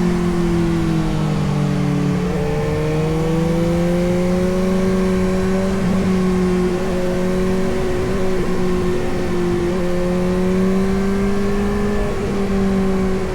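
Suzuki GSX-S750's inline-four engine running under way at a fairly steady pace. Its pitch drops about a second or two in, then rises again and holds.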